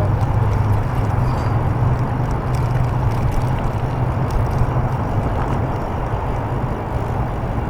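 Steady wind buffeting the microphone, a continuous low rumbling rush.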